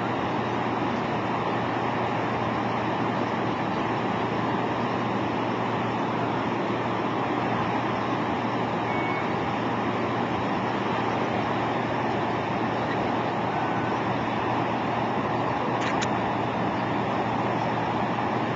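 Steady engine and road noise from inside a moving vehicle, unchanging throughout, with a faint click near the end.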